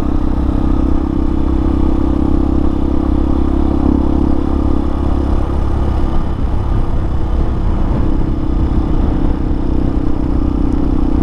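Hawk 250 dual-sport motorcycle's single-cylinder engine running at a steady cruising speed while riding, with road and wind rumble underneath.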